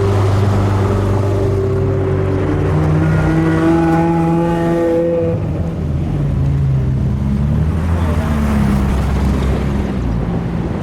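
Sports car engines running loud as a convoy drives in, one revving up with a rising pitch and easing off about five seconds in, then running on at a lower note.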